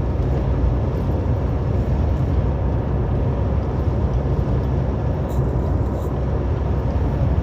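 Steady low drone of a heavily loaded semi-truck's engine and road noise, heard inside the cab while cruising at highway speed.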